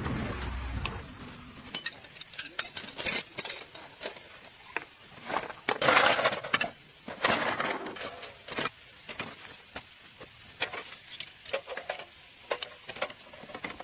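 Irregular light clinks and knocks, like hard objects tapped and set down, with two louder rushing bursts about six and seven seconds in.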